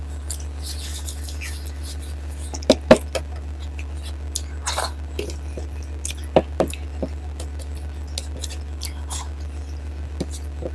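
Close-miked mukbang eating sounds: quiet chewing of dal and rice with a few sharp mouth clicks or smacks, two pairs of them the loudest, about three and six and a half seconds in, over a steady low hum.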